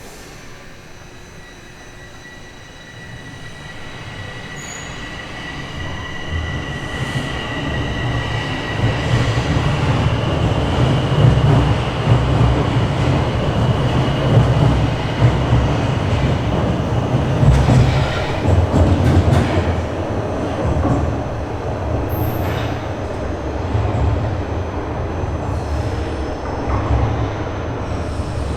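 Bombardier Toronto Rocket subway train pulling away from a station and gathering speed. The rumble of wheels on rails builds over about the first ten seconds, with a thin, steady high whine early on, then the train runs on at speed.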